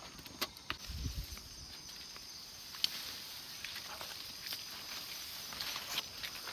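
Rural outdoor ambience: scattered light clicks and knocks over a steady high hiss, with a dull low thump about a second in.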